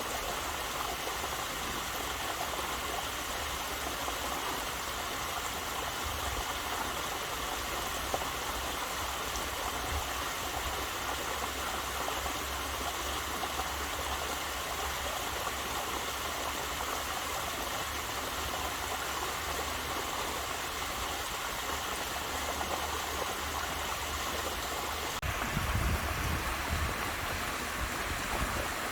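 Waterfall: water falling and rushing steadily, with a brief low rumble near the end.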